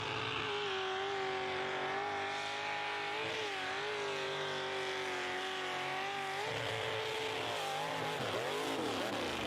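Mud truck engine revving hard, rising to high revs and holding there for several seconds. Then it drops in pitch and swings up and down a few times near the end.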